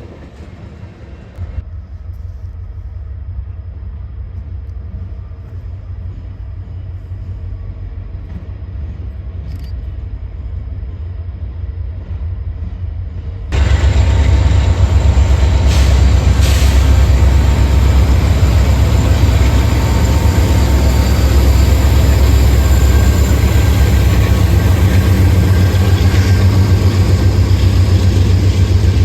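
Train passing: a low rumble that slowly grows, then about halfway through turns suddenly much louder and fuller as the train comes close.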